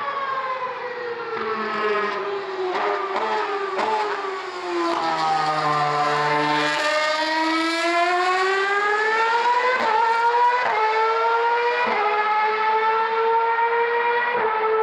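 Formula One car's Ferrari-built 2.4-litre V8 engine at racing speed. The engine note falls through several downshifts over the first few seconds, then climbs again and shifts up several times, each shift a brief step in pitch.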